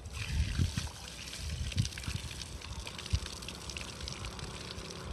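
Water running steadily from a public drinking-water tap.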